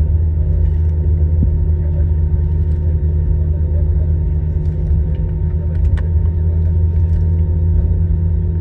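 Airbus A321 airliner running, a steady low rumble with faint steady tones above it.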